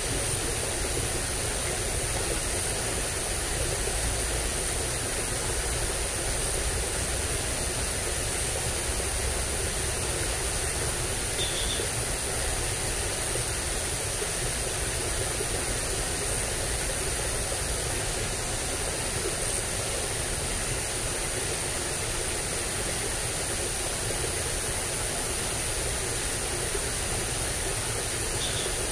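Steady rushing of water flowing in a swollen ditch, with a constant high-pitched whine over it and a few faint short chirps.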